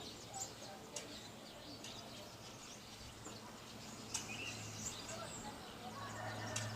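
Wild birds chirping outdoors in many short, scattered calls, over a steady low hum that grows louder near the end. A few sharp clicks stand out.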